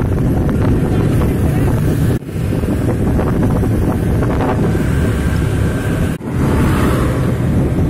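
Wind buffeting the microphone over the steady low rumble of a moving road vehicle. The sound drops out briefly twice, about two seconds in and again about six seconds in.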